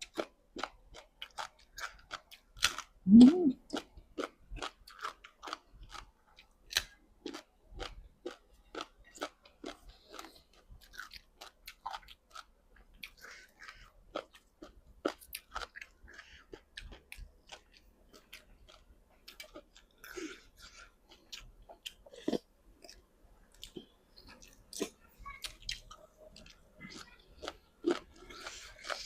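A person chewing and crunching food close to the microphone, eating boiled frogs and raw vegetables, with irregular short crunches throughout. One louder, short, low sound comes about three seconds in.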